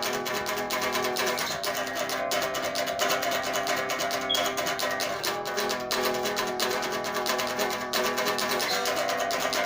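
Acoustic guitar played unplugged: a steady stream of rapid picked and strummed notes with chords ringing under them.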